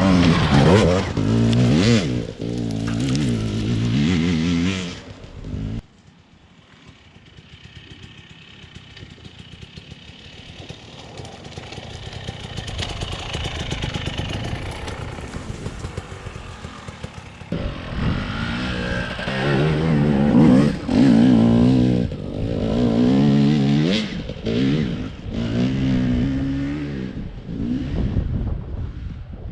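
Husqvarna TE250i's two-stroke single-cylinder engine revving up and down under riding. About six seconds in it drops suddenly to a faint engine sound that slowly grows louder, and loud revving with repeated rises and falls returns about two-thirds through.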